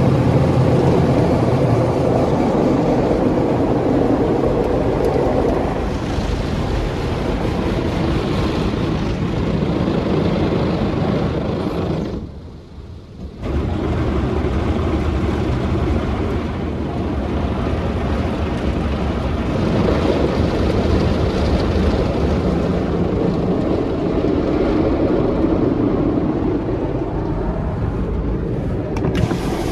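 An Istobal M1 rollover car wash machine working over the car, heard from inside the cabin: a steady loud rush and whir that breaks off briefly about 12 seconds in and then starts again.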